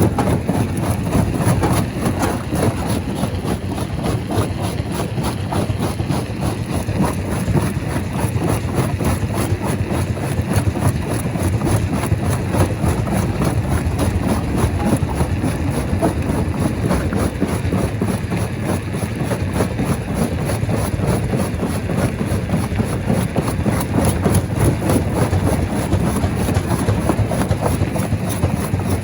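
Rock crusher machinery running: a steady, heavy low rumble with dense, irregular knocking and clatter of stone being crushed.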